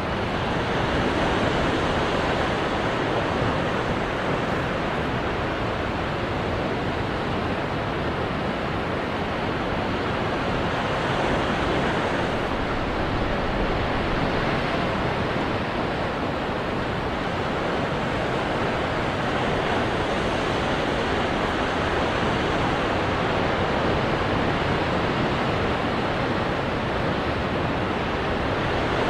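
Ocean surf washing onto rocks: a steady, continuous rush of water with gentle swells in loudness and no distinct single crashes.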